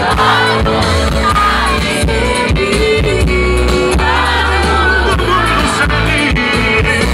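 Loud live sertanejo music from a duo's band in concert, with a steady bass and a wavering sung or played melody over it.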